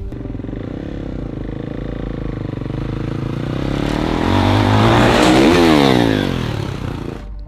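Dirt bike engine accelerating hard, its note climbing and getting louder to a peak about five seconds in, then dropping in pitch as the throttle comes off or the bike passes; the sound cuts off suddenly near the end.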